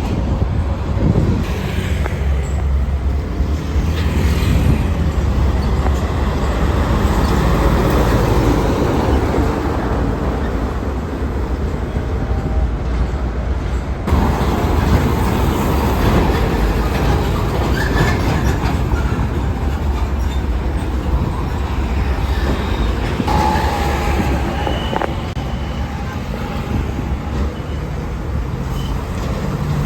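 Vehicles passing close by: a steady, loud rumble, with a few short high tones in the last few seconds.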